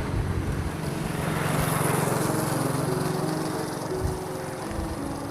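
A passing motor vehicle's engine hum, growing louder to about two seconds in and then fading away, over steady road and wind noise.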